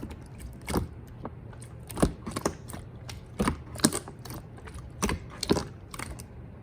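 Clear jelly slime being squeezed and pressed by hand, giving sharp sticky clicks and pops in small clusters about once a second, which stop shortly before the end.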